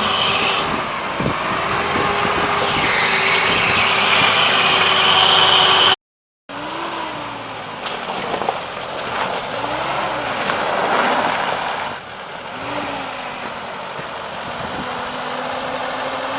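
Off-road vehicle's engine running steadily under load, then, after a short silent gap about six seconds in, revving up and down several times as the stuck vehicle tries to drive free.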